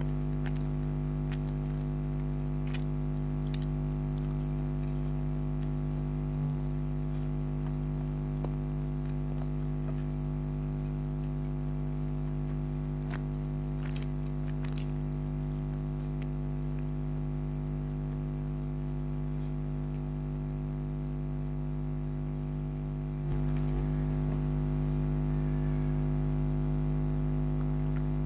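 Close-up chewing and biting of chicken karahi and naan, with a few sharp clicks, over a steady low hum that gets a little louder about three quarters of the way through.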